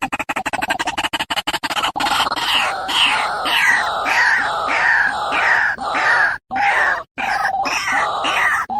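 White-breasted waterhen (ruak-ruak) calls played as a bird lure. A fast pulsing chatter comes first, then about two seconds in it turns to repeated harsh croaking calls, roughly two a second, broken by a few very short gaps near the end.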